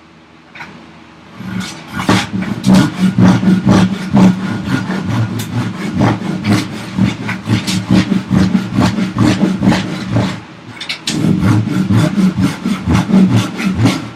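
Flexible flush-cut hand saw cutting through a block of lumber in quick, steady rasping strokes, stopping briefly about ten seconds in and then going on.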